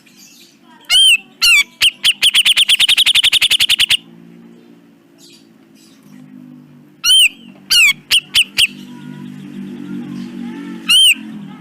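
Cucak jenggot (grey-cheeked bulbul) singing loud, sharp arched notes: a couple of single notes, then a fast run of about ten notes a second for around two seconds, followed later by a few spaced single notes.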